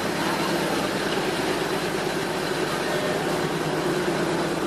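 Steady running noise of a train: a constant mechanical hum under an even rushing noise, with no change in pitch or level.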